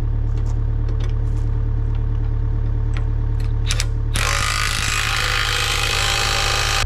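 Kubota U55 mini excavator's diesel engine running steadily, with scattered light metal clinks. About four seconds in, a loud steady hiss starts suddenly and keeps going.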